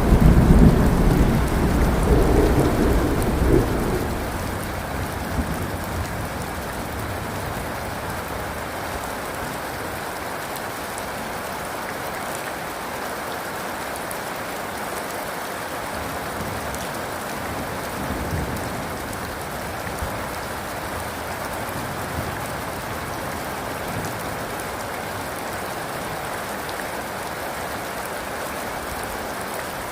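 Steady rain falling, with a low thunder rumble that fades away over the first few seconds.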